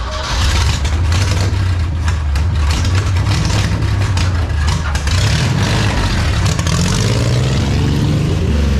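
A vehicle engine running under load with rattling and clunking, its pitch climbing from about two-thirds of the way through as it revs up; it cuts off suddenly at the end.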